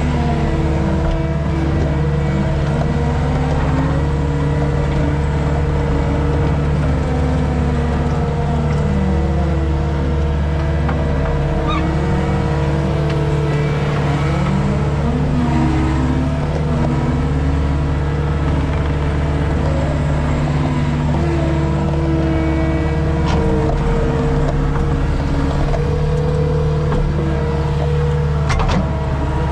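Skid steer engine running steadily under load, with higher tones that rise and fall as the machine works.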